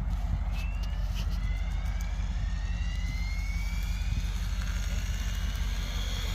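SAB Goblin Pro electric RC helicopter with a three-blade rotor head spooling up: a whine from the motor and drive that rises steadily in pitch over a constant low rumble.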